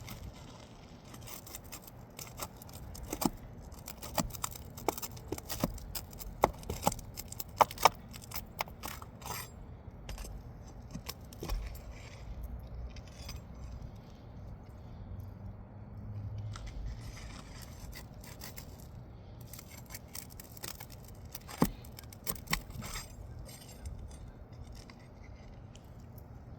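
Metal pry bar working under asphalt roof shingles to pull the roofing nails: sharp metallic clicks, clinks and scrapes, clustered in the first third and again a little past two-thirds.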